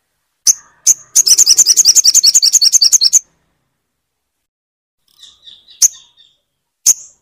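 Sogon bird calling: two sharp high notes, then a fast rattling trill of about ten notes a second for about two seconds, followed by softer chattering and two more sharp notes near the end.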